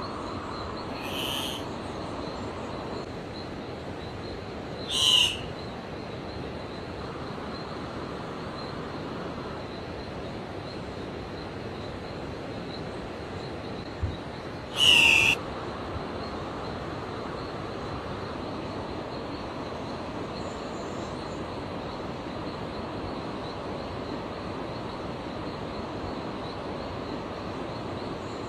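A bird gives three short, high calls, about a second in, about five seconds in and about fifteen seconds in, the last the loudest, over a steady background hiss.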